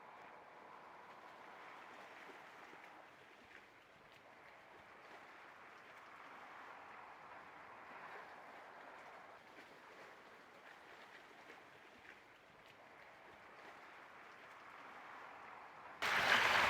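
Faint, steady rush of flowing water with no swan calls, then a much louder burst of water noise that starts suddenly near the end.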